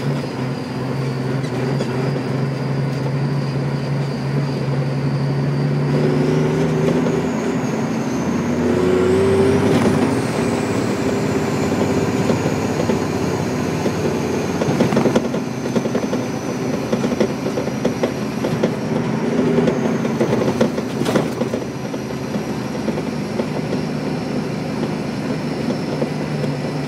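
Dump truck engine running as the truck drives slowly on a bumpy road, its note rising for a few seconds about a quarter of the way in and then settling back. A thin high whine rises and falls with it, and there are a couple of sharp knocks later on.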